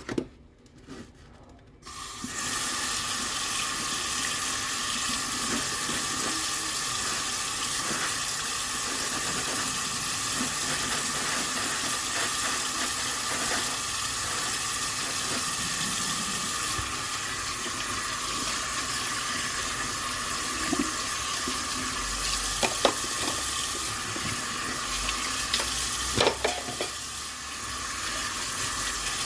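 A few clinks of dishes, then about two seconds in a kitchen tap is turned on and runs steadily into the sink, with a few knocks of dishes under the stream near the end.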